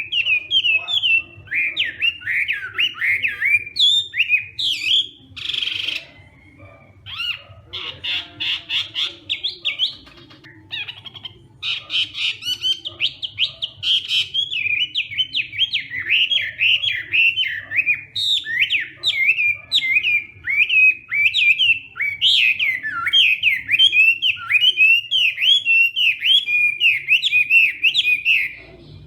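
Chinese hwamei (melodious laughing thrush) singing a loud, fast song of sweeping whistled notes and rapid repeated phrases, its aggressive contest song. It breaks off briefly about six and again about ten seconds in, then sings on without a pause.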